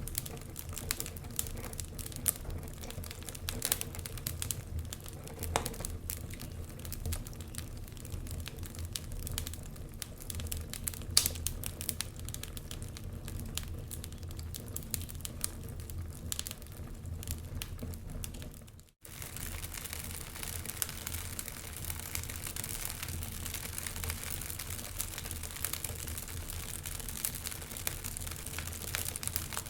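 Wood fire crackling in a fireplace: scattered sharp pops and snaps over a steady low rumble. The sound cuts out briefly about two-thirds of the way through, then resumes with more hiss.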